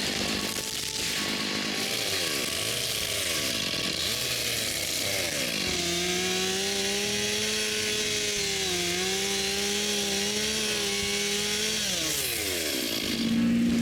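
Gas chainsaw revved up and down several times, then held at high speed for about six seconds, its pitch sagging briefly midway, before being let off near the end.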